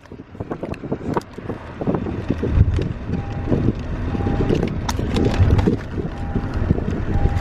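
Vehicle rumble and wind noise on the microphone, with scattered knocks. From about three seconds in, a short beep repeats about once a second.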